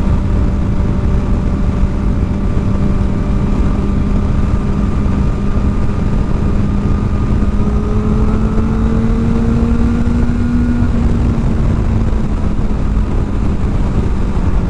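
Kawasaki Ninja ZX-4R inline-four with an aftermarket exhaust, running at a steady cruise; its note rises gently about halfway through and then eases back. Heavy wind noise on the helmet microphone throughout.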